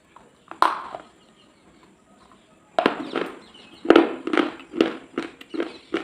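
Close, crisp crunching: one crunch about half a second in, then from about three seconds in a steady run of crunches about two a second.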